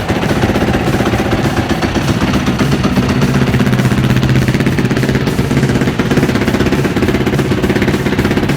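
Yamaha YZ450F's 450 cc four-stroke single-cylinder engine running at a steady idle just after a cold start, a fast, even pulsing beat.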